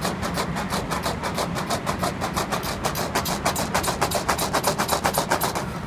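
A fast run of sharp rhythmic strokes, like a rattle or rapid percussion, about seven a second at first, speeding up and growing louder from about three seconds in, over a steady low hum.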